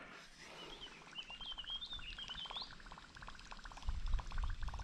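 A small bird twittering faintly, over a fast, steady run of soft ticks from a topwater lure being reeled back across calm water. A low rumble comes in near the end.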